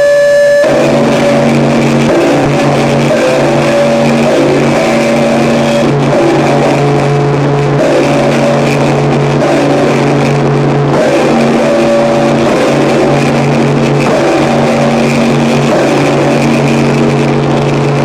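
Harsh noise music: a loud, dense wall of distorted hiss over a steady low droning hum, with a brief sharp burst of a different texture in the first half second.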